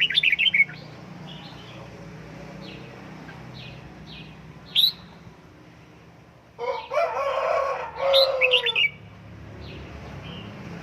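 Red-whiskered bulbul chirping in short, high bursts, with a louder, fuller call lasting about two seconds in the second half.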